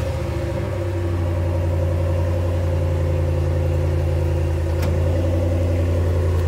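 2018 Dodge Ram pickup's engine idling steadily through its stock exhaust, the muffler still fitted.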